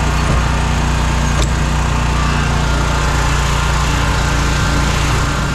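Scag lawn mower engine running steadily and loudly, with no change in pitch.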